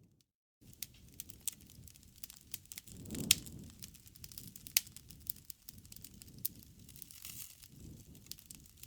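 Campfire crackling: scattered sharp pops and snaps over a low rumble of burning wood, with one louder pop about three seconds in. The sound drops out for about half a second at the start.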